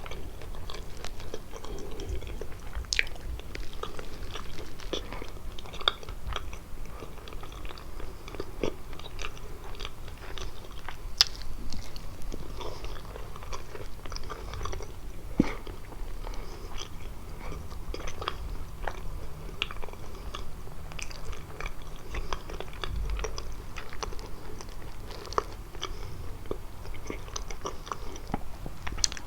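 Close-miked chewing and biting of kalaj pastry: irregular wet mouth clicks and light crunches, with a few sharper bites.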